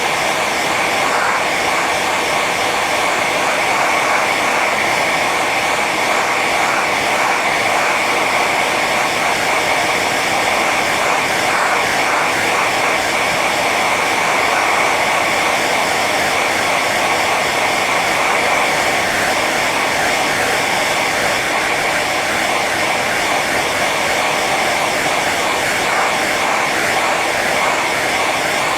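Hair dryer running steadily on its high setting: a constant airy rush of blown air over the fan motor's whine, with a tone near the top that never changes.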